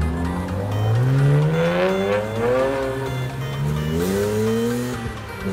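BMW M cars' straight-six engines accelerating hard away. The pitch climbs, drops at an upshift about three seconds in, then climbs again and drops once more near the end. Background electronic music plays underneath.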